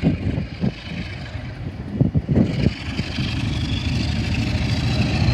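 Class 47 diesel locomotive's Sulzer engine approaching, its steady rumble growing louder over the last couple of seconds. Gusts of wind thump on the microphone in the first half.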